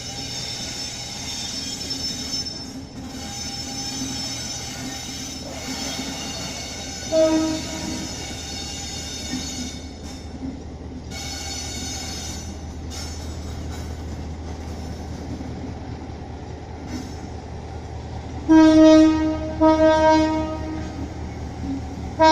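Passenger train's horn sounding: a short blast about seven seconds in, two longer blasts a little before the end and a short one at the very end, over the train's steady low engine drone, which grows in the second half. A high whine runs through the first half.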